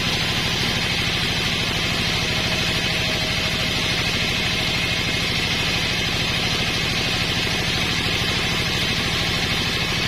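Homemade sawmill's engine running at a steady speed with a rapid, even beat, a steady high hiss over it.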